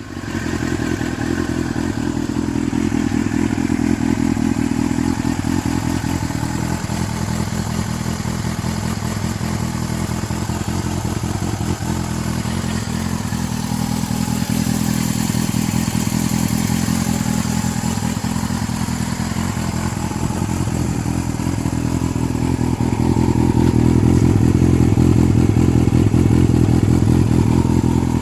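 Yamaha FZS1000's inline-four engine idling steadily after a rev has died away, a little louder in the last few seconds.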